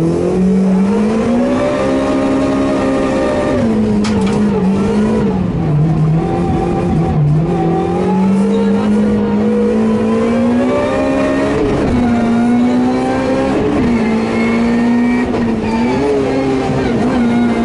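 Rally car engine heard from inside the cabin, under hard acceleration. Its pitch climbs, then rises and dips again and again as the driver works through gear changes and lifts off the throttle.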